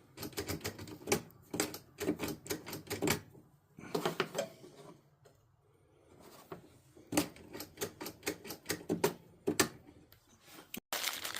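Quick, irregular metallic clicks and clacks from hand tools working on the mower, coming in three bursts with short pauses between them.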